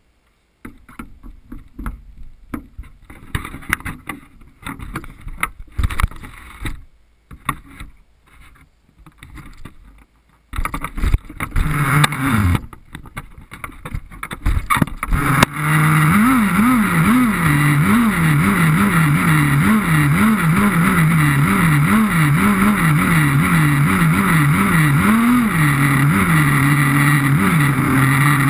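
Small nitro RC car engine, new and being broken in: scattered knocks and handling clatter, then brief attempts to start it, and from about halfway through it runs continuously with the pitch repeatedly rising and falling in light throttle blips.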